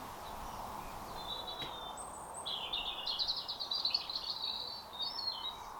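A songbird singing one rapid, twittering phrase of quickly repeated high notes lasting about three seconds, over a steady background hiss of outdoor ambience.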